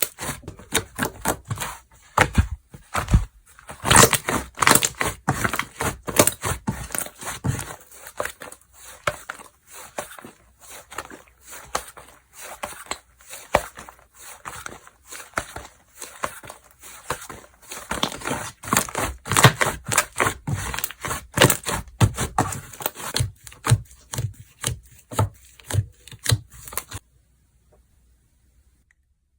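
Slime being squished, folded and stretched by hand, giving a rapid, irregular run of crackling clicks and pops. It cuts off suddenly near the end.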